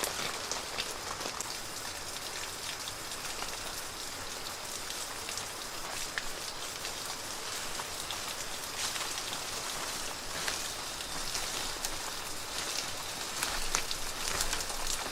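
Falling water pattering steadily on a surface: an even hiss with many small irregular drop ticks.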